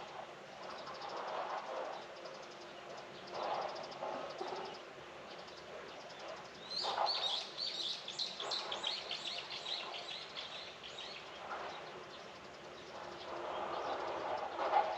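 A small bird singing a quick run of repeated chirps for about four seconds in the middle, over a soft outdoor background with swells of rustling noise.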